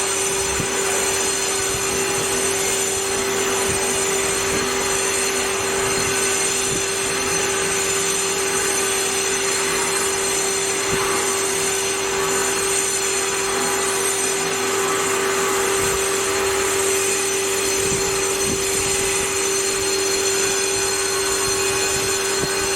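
VMC7126 CNC vertical machining center running, a steady whine over a constant mechanical hiss.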